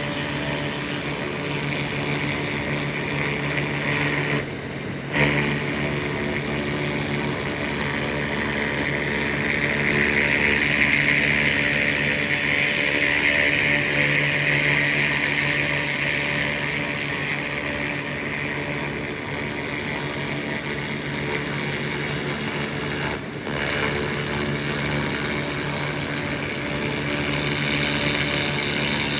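SFX 2000 W handheld laser rust remover running, a steady hiss over a machine hum as the laser cleans rust off metal. It cuts out briefly twice, about four seconds in and again after about twenty-three seconds.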